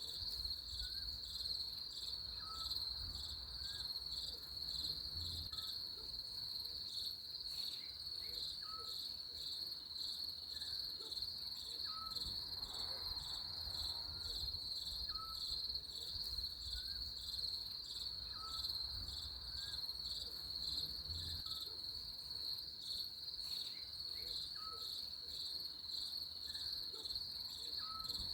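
Crickets chirping in a continuous high-pitched pulsing trill, with a faint short call repeating about once a second beneath it.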